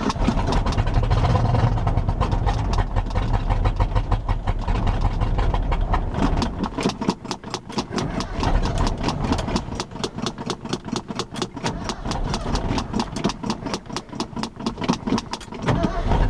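A carbureted truck engine cranking and firing on gasoline poured straight into the carburetor, running roughly in rapid, even pulses. This is a cold engine that won't start on its own being primed by hand.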